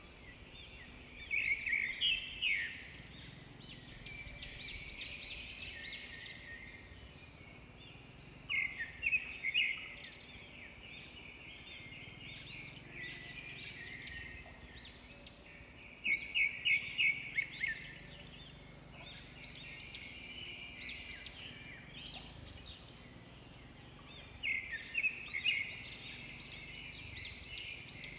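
Wild birds calling: bouts of quick, repeated high chirps come about every seven or eight seconds, with softer chattering between them.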